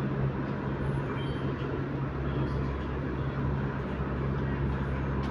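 Steady cabin noise inside an MTR Tuen Ma Line C-train: a constant low hum over the rumble of the train on the track, the low rumble growing stronger about two seconds in.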